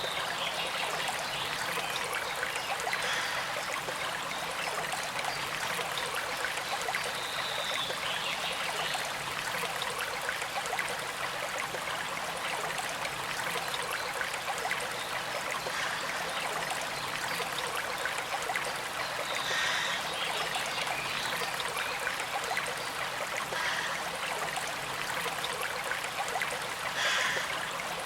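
Small stream flowing steadily over stones, a continuous trickle with a few brief brighter splashes and gurgles.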